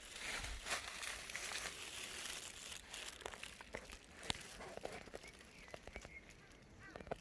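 Dry leaves and undergrowth rustling and crackling, loudest at first, with scattered small snaps.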